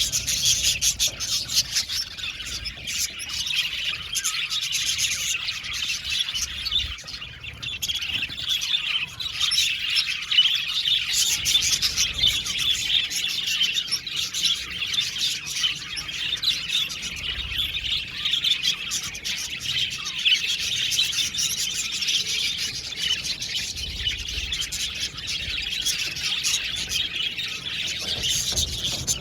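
A flock of budgerigars chirping and chattering continuously, many birds calling at once in a dense, unbroken twitter.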